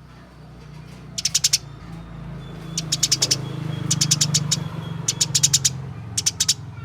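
Eurasian tree sparrow giving agitated, fighting-style chirping: about five short bursts of rapid high chirps in quick series, each lasting under half a second. A steady low hum runs underneath.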